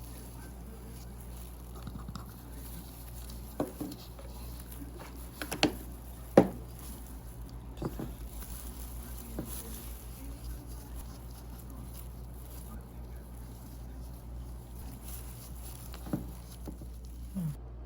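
Scattered light taps and clicks of small manicure tools and bottles being handled and set down, the loudest about six seconds in, over a steady low hum.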